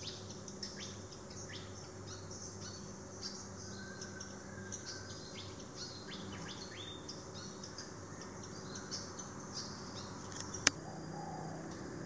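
Garden birds chirping and calling in quick, short high notes throughout, with one sharp click near the end.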